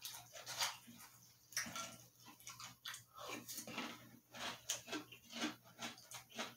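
A person chewing a mouthful of crunchy cereal in milk, with an irregular run of wet crunches, and a spoon scooping in a glass bowl.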